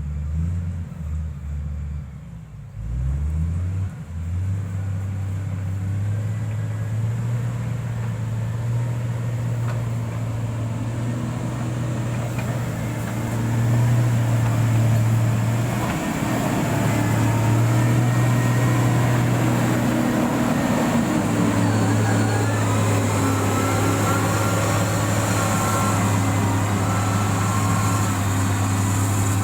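Diesel engine of heavy road-construction equipment running, a low, even drone. It rises and dips for the first few seconds, then holds steady. Faint higher whining tones come in during the second half.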